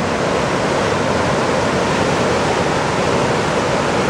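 Fast-flowing water rushing steadily.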